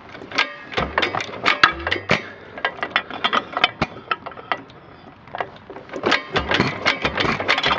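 1929 Economy XK 3 1/2 hp flywheel engine being hand-cranked: irregular mechanical clicking and clanking as it is turned over, easing off in the middle and picking up again near the end. It does not catch, a sign that its fuel mixture needs readjusting.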